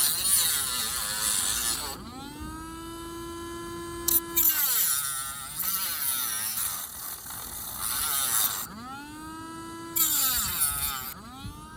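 Dremel-type rotary tool with a cut-off disc, alternating between a steady high whine as it spins freely and harsh grinding noise as it cuts into the plastic bezel. The whine rises in pitch as the tool speeds up and falls as it slows, twice.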